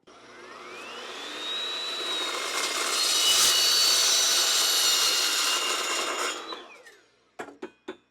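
Electric metal-cutting saw spinning up with a rising whine, cutting through steel stock for about four seconds, then winding down with a falling whine. A few light clicks follow near the end.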